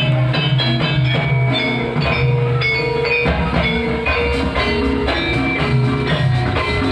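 Gamelan ensemble accompanying an ebeg dance, with metal-keyed instruments striking a continuous run of ringing notes over a sustained low tone and drums.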